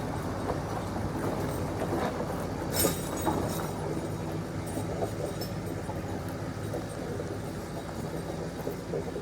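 Tractor engine running steadily while driving, with the tyre chains clanking and rattling irregularly, the sharpest clanks a little under three seconds in.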